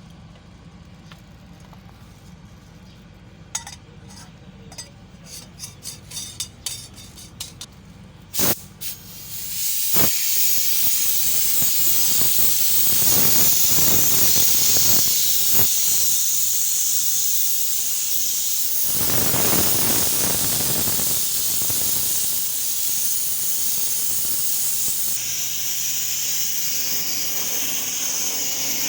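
Paint being sprayed onto an engine part: a loud steady hiss of spray that starts about a third of the way in and carries on, swelling now and then. Before it comes a run of irregular sharp clicks and knocks.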